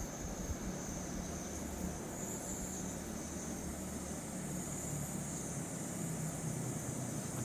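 Steady rushing of a fast mountain river, with a low rumble underneath and an even hiss.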